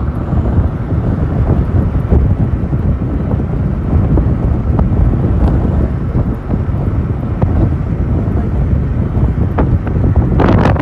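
Wind buffeting the microphone on a moving motorcycle taxi, over a steady low rumble from the bike and the road. It grows louder and brighter near the end.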